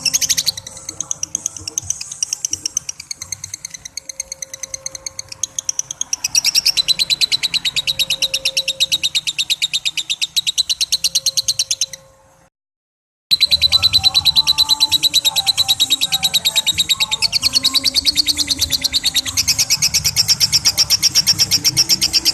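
Lovebird 'ngekek': a long, rapid chattering trill of shrill high notes, many to the second. It breaks off for under a second about halfway through, then resumes.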